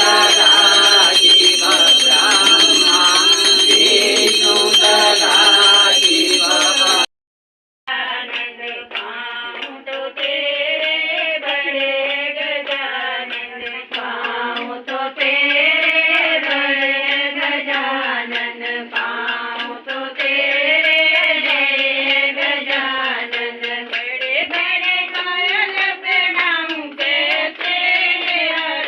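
Devotional singing. For about seven seconds voices sing over steady high ringing, likely bells; then after a short break a song with several voices continues with a rhythmic beat.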